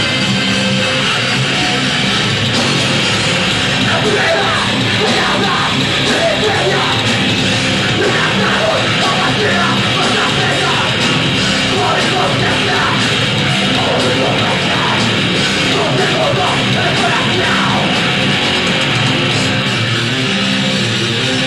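A heavy metal band playing live with distorted guitars, bass and drums, loud and continuous, while the singer yells over it.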